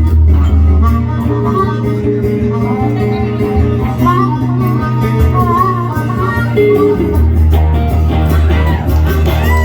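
Live band playing an instrumental break in a blues-style song, with bass, drums and a melodic guitar lead and no singing.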